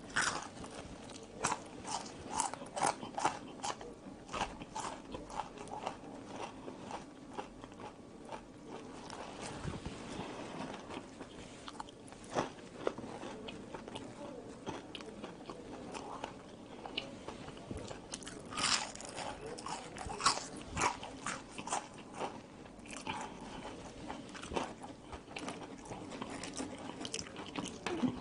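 A person chewing and biting french fries topped with ketchup and mayonnaise: soft crunching and wet mouth clicks, coming in clusters. The clicks are densest in the first few seconds and again about two-thirds of the way through.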